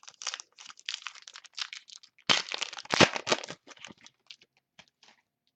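Trading cards and their crinkly pack wrapper being handled: rustling and crinkling throughout, louder for about a second just past the middle.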